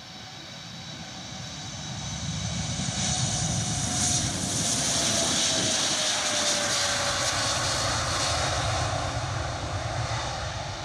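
Boeing 787-8 Dreamliner's twin jet engines at takeoff power as the airliner goes by, growing louder over the first few seconds and then easing off, with a faint whine that falls in pitch as it passes.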